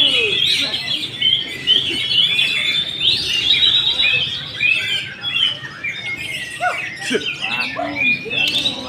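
Oriental magpie-robin (kacer) singing a continuous, varied song of quick whistles and chattering phrases.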